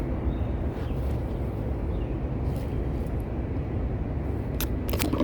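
Steady low outdoor background rumble, with a few short crackles near the end.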